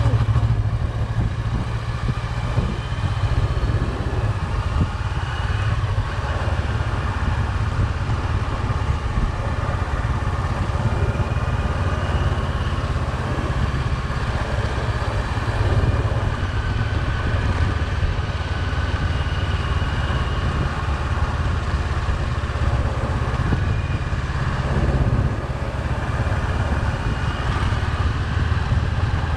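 Motorcycle riding at steady speed: the engine running under a constant low rumble of wind on the microphone.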